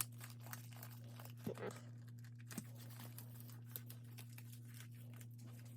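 Faint rustling and crinkling of paper and plastic as album inserts and photo cards are handled, made up of scattered small ticks over a steady low hum.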